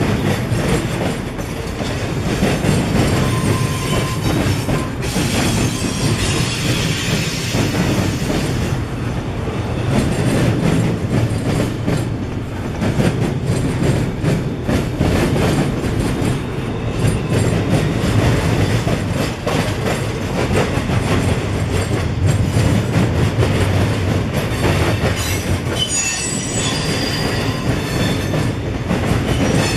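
Freight train cars rolling past with a steady rumble and wheels clacking over the rails, with high wheel squeal near the end.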